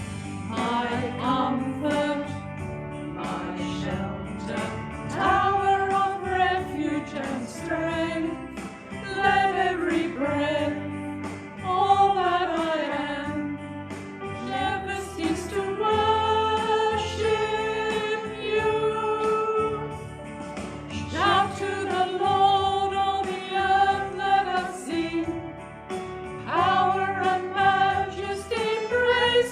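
A small church singing group singing a hymn together, in long held notes with accompaniment beneath.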